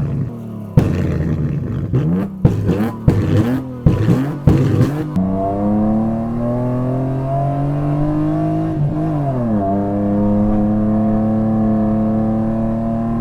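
Nissan Skyline ER34's RB25 straight-six engine: short, sharply cut revs in the first five seconds, then one long run with the engine note slowly climbing, dropping about nine seconds in and holding steady after.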